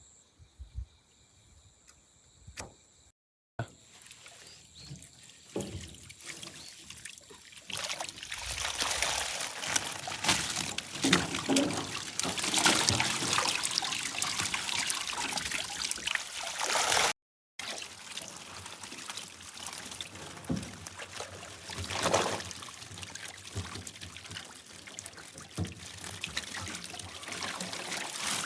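Water splashing and trickling, faint at first and loud from about eight seconds in, cut off briefly twice. Faint steady insect trilling is heard before the first cut.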